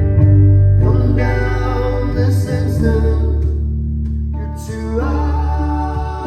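Live band music in a slow song: sustained chords over a heavy, steady bass line, the chords changing about a second in, again a second later, and near the end.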